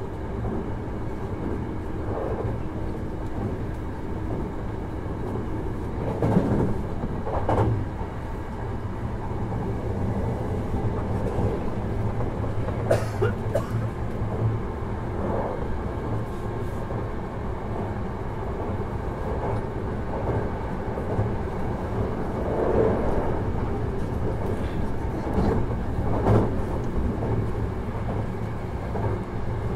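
Hankyu 1000 series electric train running between stations, heard from inside the passenger car: a steady rumble of wheels on rail with occasional short knocks from the track.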